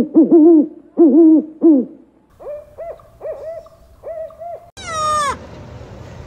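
Spotted eagle-owl hooting: a run of loud, low hoots that each rise and fall slightly, followed by a quieter, higher-pitched series of hoots. Near the end a single loud call from another animal slides down steeply in pitch.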